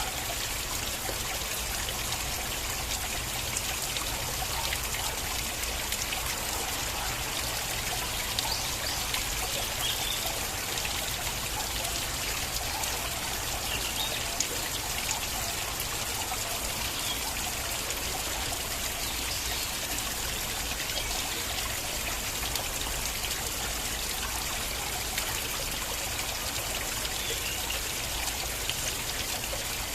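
Water in a stream flowing and trickling steadily, with small splashes and drips scattered through.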